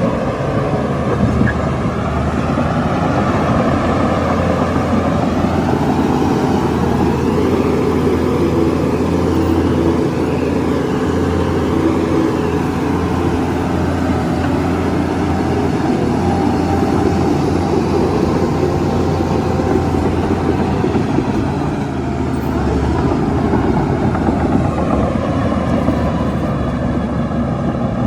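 Heavy diesel earthmoving machinery running continuously, with its engine pitch wavering slightly now and then.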